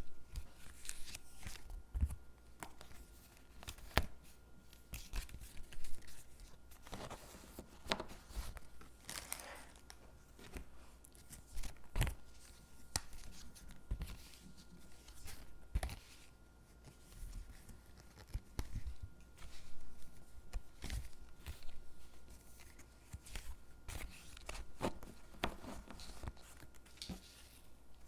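Stickers being peeled off their backing sheet and pressed onto gingerbread cutouts: short tearing peels and light crinkles, with scattered taps and clicks at irregular intervals.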